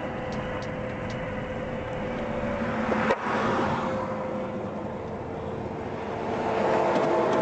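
Steady vehicle running noise with a low hum, a single sharp click about three seconds in, and the noise growing louder near the end.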